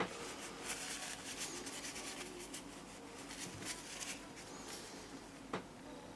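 Repeated scratchy rubbing or scraping strokes from hand work on a small object, with a sharp click at the start and another about five and a half seconds in.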